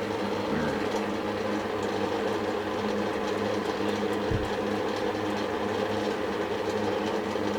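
Steady hum of an electric fan running, with one brief low thump about four seconds in.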